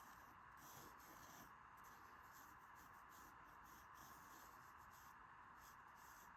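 Faint pencil strokes scratching on paper during loose sketching, coming and going over a steady low hiss.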